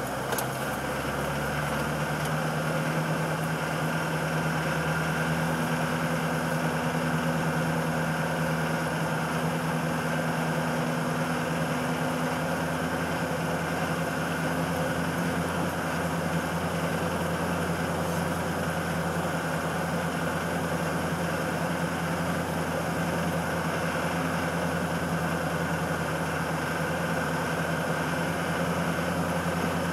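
Land Rover engine running as the vehicle drives on. The engine picks up just after the start, then holds a steady drone.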